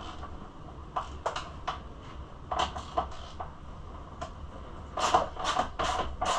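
Hand tools clicking and knocking against metal parts of a dirt bike as fasteners are worked loose, scattered at first, then a quicker run of clicks near the end.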